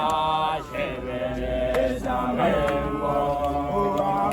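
A group of voices chanting together, several held, sliding notes sung at once.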